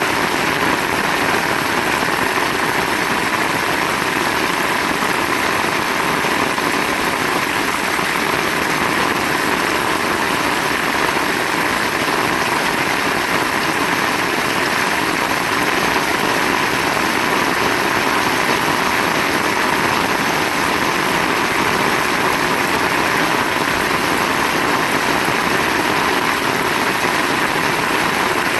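Heavy rain falling steadily, a loud even hiss with no breaks and no thunderclaps.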